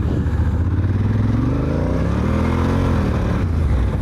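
Honda Africa Twin's parallel-twin engine accelerating: its pitch rises steadily, then falls as the throttle eases off about three seconds in.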